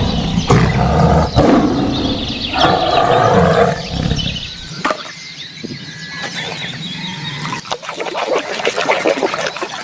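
A loud animal roar, lasting about four seconds, followed by light scratching and clicking.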